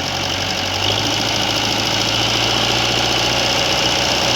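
Tractor diesel engine running steadily, picking up slightly in speed about a second in.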